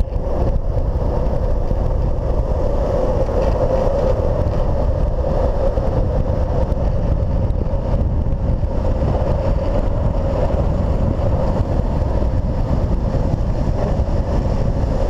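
Longboard urethane wheels rolling fast on asphalt, a steady roar, with wind buffeting the microphone.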